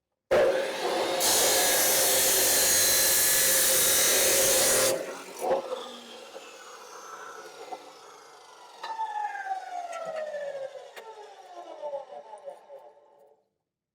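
Handheld electric power tool running loudly and steadily, harsher from about a second in, then cutting off after about five seconds; several falling whines follow as it winds down.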